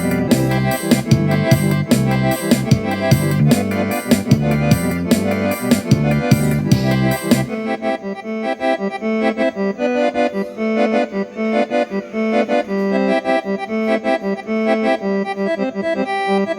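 Accordion playing a lively instrumental tune over bass and a steady drum beat. About seven seconds in, the bass and drums drop out, leaving the accordion playing on its own.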